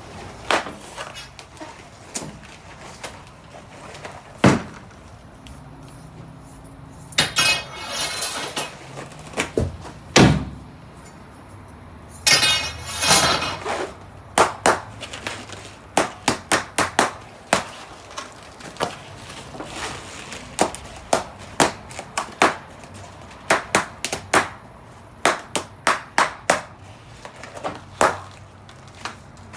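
Balloons popping one after another: a few loud single pops, the loudest about ten seconds in, then a long run of smaller sharp pops coming about one or two a second.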